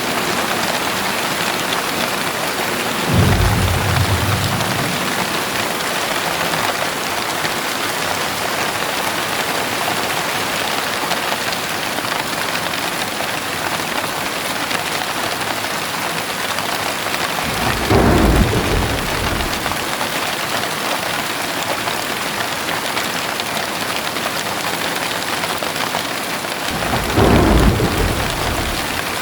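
Heavy rain pouring steadily, with three short, low claps of thunder: one a few seconds in, one about midway and one near the end.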